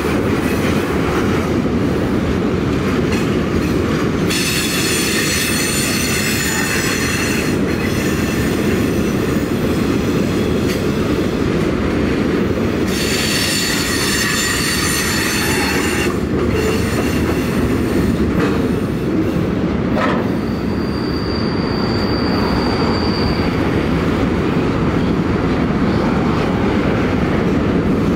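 Freight train's boxcars and covered hoppers rolling past on a curve: a steady rumble of wheels on rail, with high-pitched wheel squeal about four seconds in and again about thirteen seconds in, each for a few seconds, and a thinner squeal about twenty-one seconds in.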